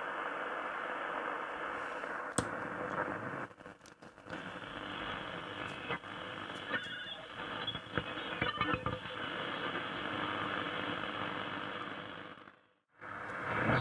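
Grundig Satellit 3400 shortwave receiver tuned between stations on the SW4 band: steady static hiss with brief whistles and clicks. It cuts out for a moment near the end as the band is switched.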